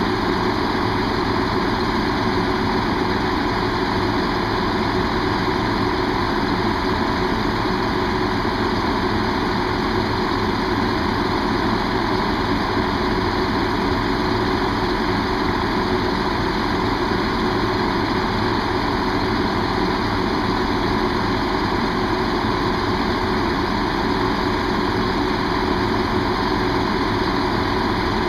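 Diesel train engine idling steadily, an even, unchanging running sound.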